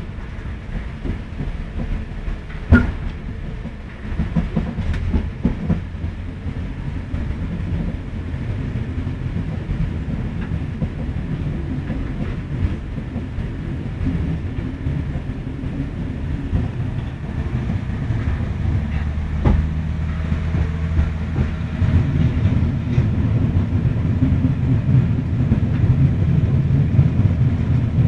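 Inside a First Great Western diesel train carriage on the move: a steady low rumble of wheels on the track, with the diesel engine's low hum growing louder and steadier in the second half. A few sharp knocks stand out, the loudest about three seconds in.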